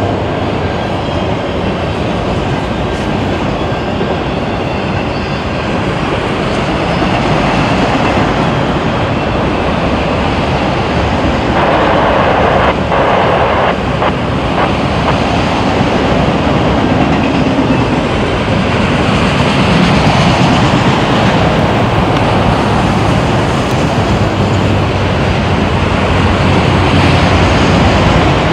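Train passing close by on the line: a continuous loud rumble and rattle of wheels on rail, growing somewhat louder in the second half.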